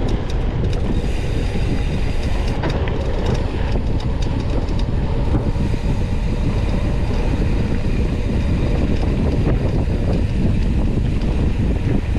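Mountain bike ridden over a rough dirt trail, heard from an onboard camera: a steady rumble of rolling and wind noise, with rattling clicks and knocks in the first few seconds.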